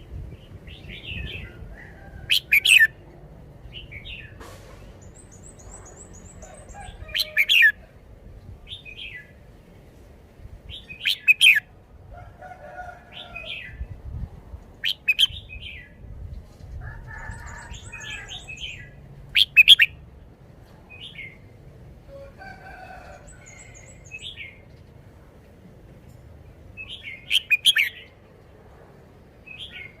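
Red-whiskered bulbul singing: short, loud, chirpy phrases repeated every few seconds, with softer chirps between them. Faint, fast, high trills from other birds come in a few times.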